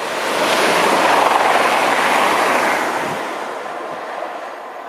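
CrossCountry Voyager diesel multiple unit (Class 220/221) passing close at speed: a rushing noise that swells to its loudest about a second in, holds, then fades as the train draws away.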